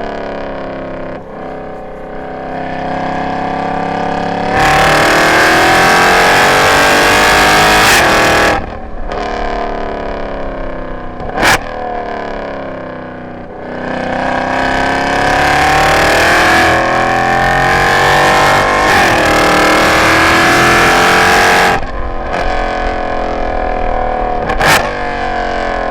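Mercedes C63 AMG's M156 6.2-litre V8, catless with long-tube headers and an X-pipe, under hard acceleration on track. There are two long full-throttle pulls with the pitch climbing, the second broken by an upshift. After each pull the driver lifts off, the engine note falls, and there is a single sharp crack on the overrun.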